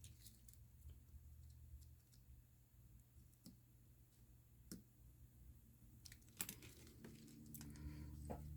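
Near silence with a low room hum and a few faint, scattered clicks from the replacement iPhone screen being handled and pressed into its frame.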